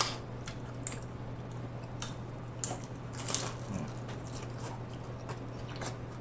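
Close-up crunching and chewing of a crispy hard-shell corn taco: irregular sharp crackles as the shell is bitten and chewed, the crunchiest about halfway through.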